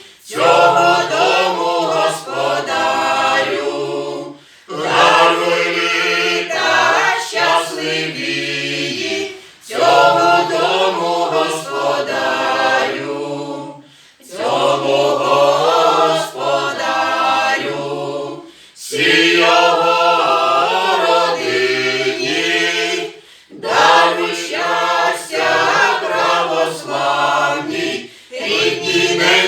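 Group of carolers singing a Ukrainian Christmas carol (koliadka) unaccompanied, in sung phrases a few seconds long with short breath pauses between them.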